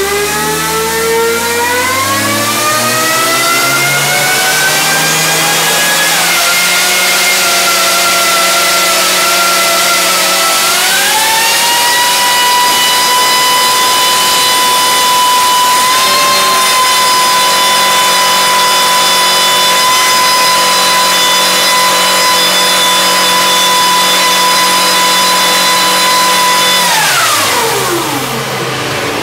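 Turbocharged and supercharged Volvo B230 inline four-cylinder engine under dyno test. Its revs climb over the first several seconds and rise again about ten seconds in. It holds steady at high revs for about fifteen seconds, then drops away quickly near the end.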